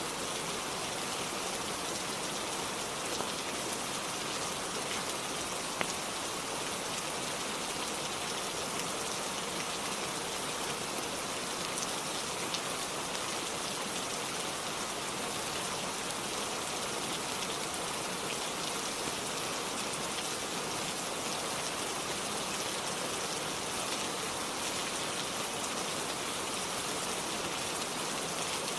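Steady rainfall, an even hiss of many drops with the weight in the upper range, and a few sharp single ticks.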